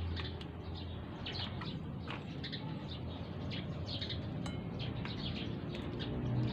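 Small birds chirping, short high chirps coming every half second or so, over a low steady hum.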